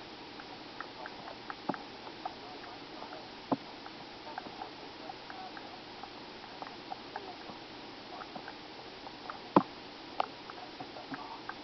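Scattered small clicks and taps at irregular intervals over a low steady hiss, with a sharper, louder click about three-quarters of the way through and another shortly after.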